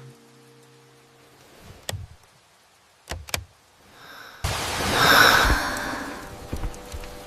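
Heavy rain comes in suddenly about halfway through, swells and then settles into a steady downpour, after a few soft clicks in the quiet.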